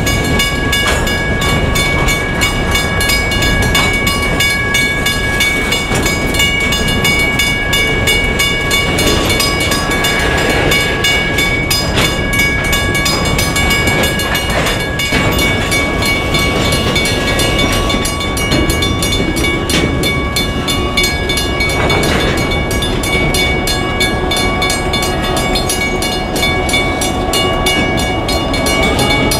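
Freight train of hopper cars rolling past a grade crossing: a steady rumble and clatter of steel wheels on the rails, with a steady high ringing over it.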